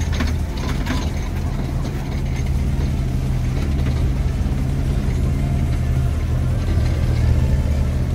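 Off-road 4x4's engine running steadily at low revs while crawling along a dirt trail, with a few short knocks of the vehicle jolting over the rough track in the first second.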